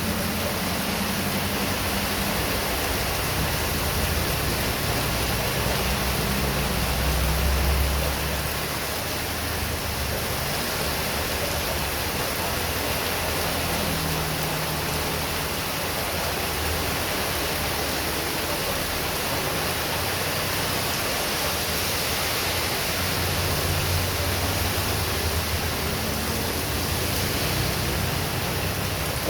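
Heavy rain falling steadily in strong wind, with a low rumble that swells now and then, loudest about seven seconds in.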